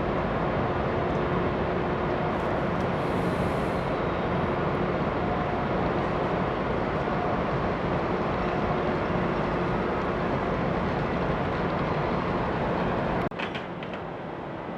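Steady hum of a large ferry's engines and machinery, with a few faint held low tones. About thirteen seconds in it cuts suddenly to a quieter hum, with a few clicks.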